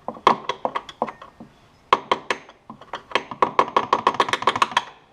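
Hand ratchet clicking: a few separate clicks, then a quick, even run of about eight clicks a second in the second half.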